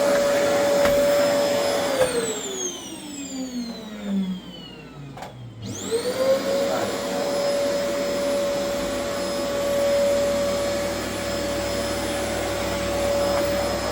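High-speed electric motor appliance whining steadily. It is switched off about two seconds in and winds down in falling pitch, then is switched back on about six seconds in and spins up quickly to full speed, running steadily again.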